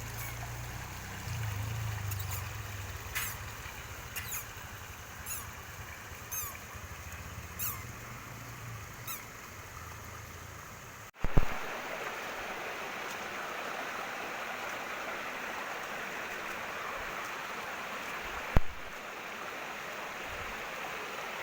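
Low rumble with a string of short, high chirps about once a second. About halfway through this gives way, with a thump, to the steady rush of flowing water from a stream or waterfall, broken once by a sharp knock.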